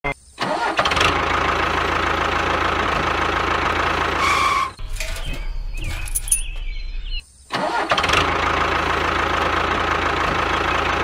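Tractor engine sound running steadily, briefly cut off near the start. A different passage with high gliding tones takes over for about two seconds in the middle, then the steady engine running comes back.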